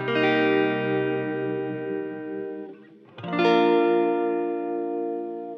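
Background music: two guitar chords, each struck and left ringing out, the second about three seconds in.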